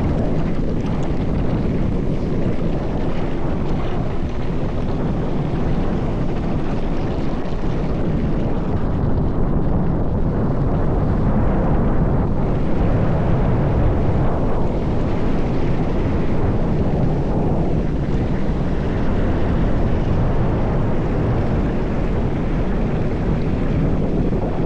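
Mountain bike rolling fast down a dirt trail: a steady rumble of tyres and bike over the ground mixed with wind buffeting the microphone, with no let-up.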